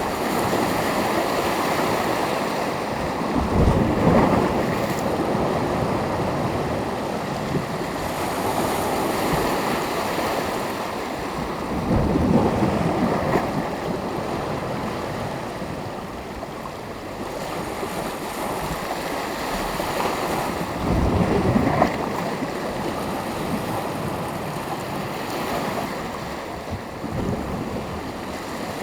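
Sea waves breaking on the shore, a steady wash of surf with stronger surges about every eight to nine seconds.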